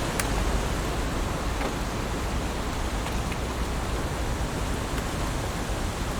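Heavy rain falling in a steady hiss with a low rumble beneath it. A few sharper drop ticks stand out now and then.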